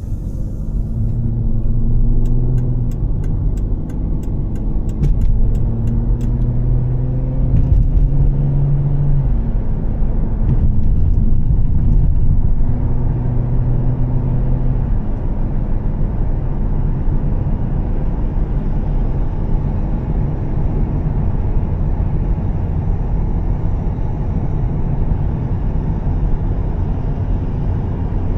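Volvo S60 T6's turbocharged straight-six with a Heico exhaust, pulling up through several gear changes in the first dozen seconds and then cruising steadily under a constant hiss of tyres on a wet road. A quick run of clicks comes a few seconds in.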